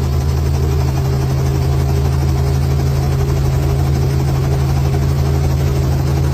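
Robinson R44 helicopter's Lycoming six-cylinder piston engine and rotor running steadily at high revs, with the governor switched on to hold rotor speed.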